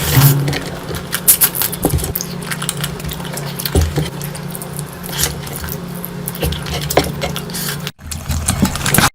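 Close-miked eating sounds of a person eating curry: many short wet clicks and smacks of chewing, over a steady low hum. The sound cuts out for a moment about eight seconds in.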